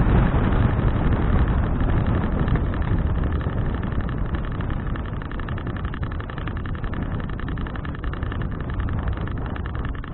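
Wind rushing over an action camera's microphone while riding a bicycle, easing off gradually.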